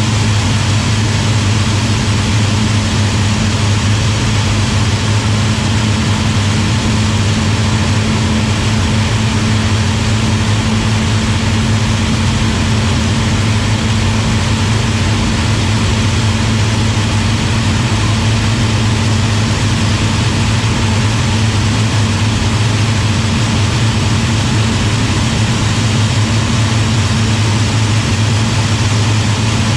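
Hawker Hurricane Mk I's Rolls-Royce Merlin V12 engine running steadily in flight, a constant loud drone that neither rises nor falls.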